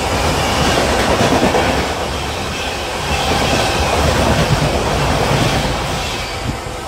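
Express passenger train passing through a station at speed: wheels clattering over the rail joints under a steady rush of noise, easing slightly near the end.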